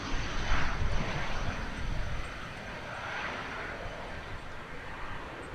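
Jet aircraft engines at an airfield, a broad rushing noise with a faint high whine, fading slowly, over a gusty low rumble.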